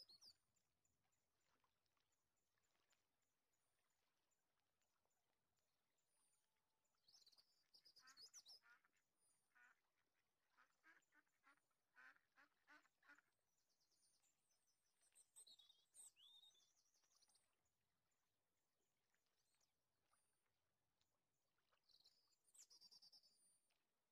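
Near silence broken by a few faint, short bird-like calls and chirps every few seconds.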